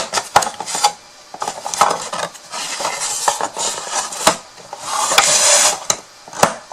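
Cut craft pieces of a small box being handled and fitted together by hand: a run of sharp clicks and taps, with a longer rustle about five seconds in.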